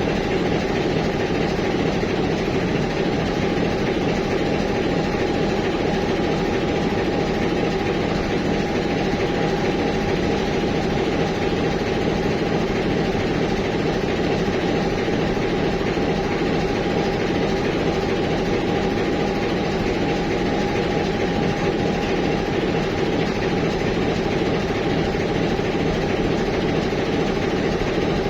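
TEM18DM shunting diesel locomotive's engine idling steadily, with a steady whine over the engine's rumble.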